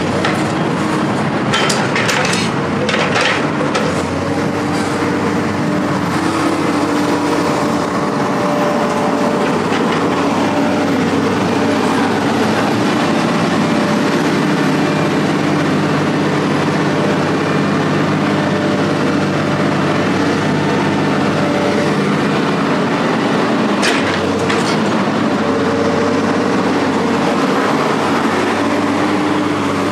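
A heavy engine running steadily under a loud rumble and rattle, with a few sharp clanks in the first few seconds and another near the end.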